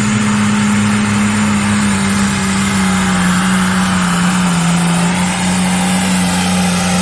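Pulling tractor's turbo diesel engine running hard at high revs, its pitch holding nearly steady with slight dips.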